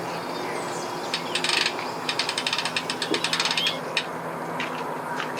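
Boat trailer winch ratchet clicking rapidly for about three seconds as the winch is cranked, over a steady engine hum.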